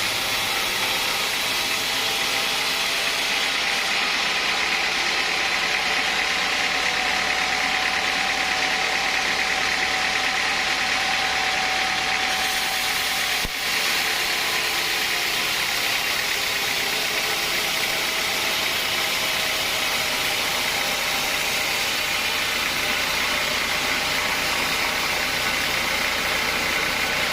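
Sawmill machinery running steadily, a continuous mechanical noise with a brief dip about halfway through.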